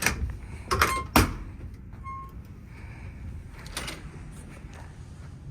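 A quick run of sharp knocks and clunks in the first second or so, with two short thin tones just after, then a low steady room hum.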